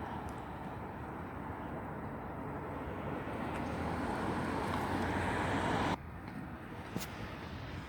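Garbage truck running, its noise building steadily for about six seconds and then dropping off suddenly; a single sharp click follows about a second later.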